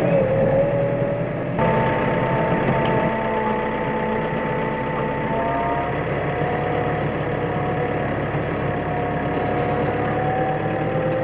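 Tractor engine running steadily, with a steady whine over the engine note. About a second and a half in, the sound grows fuller and a higher whine joins it.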